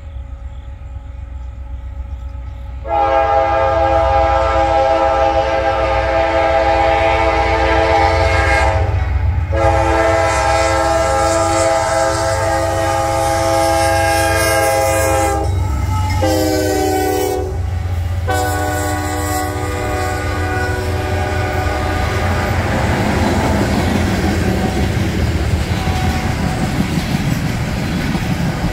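Norfolk Southern diesel freight locomotive's air horn sounding the grade-crossing pattern, long, long, short, long, over the low rumble of the approaching train. After the horn stops, the tank cars roll past with their wheels clicking over the rail joints.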